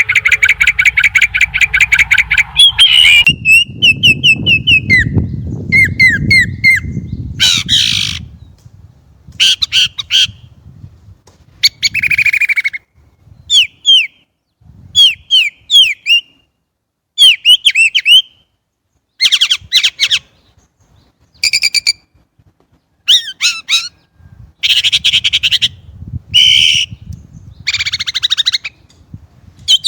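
Chinese blackbird singing close by: short, loud phrases of whistled, gliding notes and fast chattering, broken by pauses of about a second, opening with a harsh buzzy phrase. A low rumble runs underneath from about three to eight seconds in.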